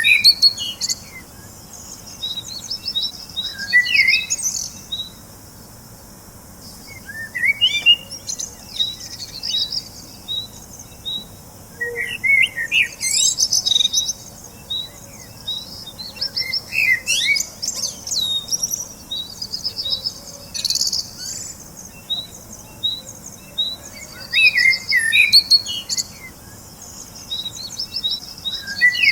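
Birds chirping and singing: short phrases of quick trills and falling notes that come again every few seconds, over a faint steady background hiss.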